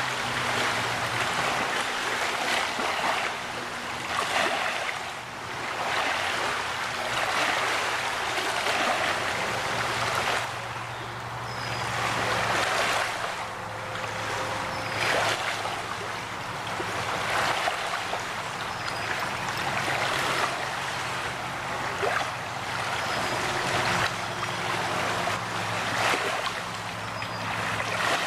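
River water washing against the shore in repeated swells about every couple of seconds, over a faint steady low engine hum.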